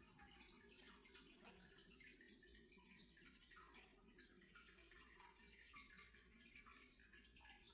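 Near silence: faint hiss with scattered tiny ticks and a low hum.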